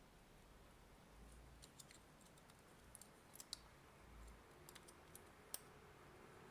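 Near silence broken by a few faint, scattered clicks and taps from small parts being handled while an opened AC power adapter is put back together.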